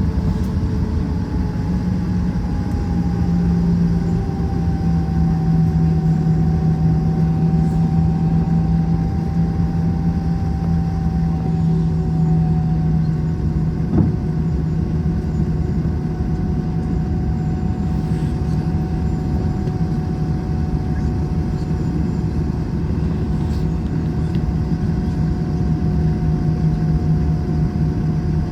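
Airbus A321 jet engines heard from inside the passenger cabin: a steady drone with a low hum and a couple of higher tones that drift slightly lower in pitch over the first dozen seconds. A single short tick about halfway through.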